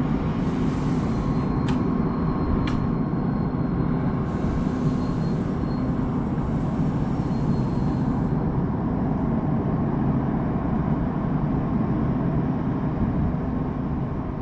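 A Siemens Charger–hauled passenger train stands at the platform, its equipment giving a steady low rumble with a constant hum. Two sharp clicks come about two and three seconds in, and a high hiss runs for a few seconds in the middle.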